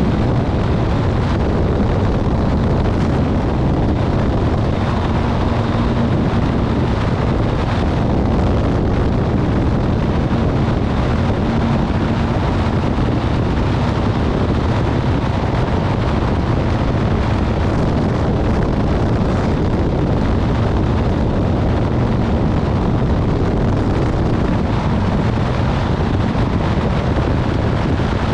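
A motorcycle underway at speed: steady wind rushing over the microphone, with the engine and road noise underneath.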